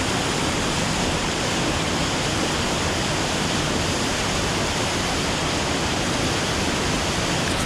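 Small forest waterfall pouring over rocks: a steady, even rush of falling water.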